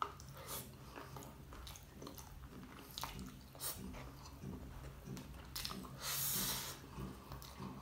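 Close-up chewing of sauced fried shrimp and rice: wet mouth clicks and smacks at irregular intervals, with one louder, longer burst of noise about six seconds in.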